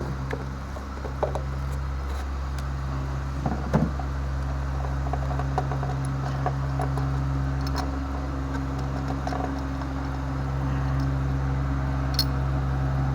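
A steady low hum runs throughout, with scattered small metallic clicks and clinks from hand tools as a spark plug is loosened and taken out of the engine. The clicks are a little stronger about three and a half to four seconds in.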